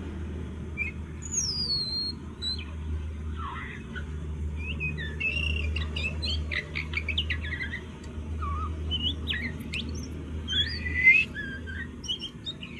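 Juvenile oriental magpie-robin practising its song: a rambling, irregular run of varied whistles, chirps and sweeping notes, the loudest about eleven seconds in, over a steady low hum.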